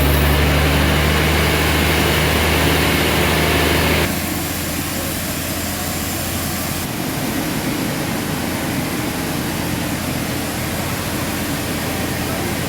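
Sawmill machinery running with a steady low hum. The sound drops abruptly to a quieter, rougher running about four seconds in, and shifts again about seven seconds in.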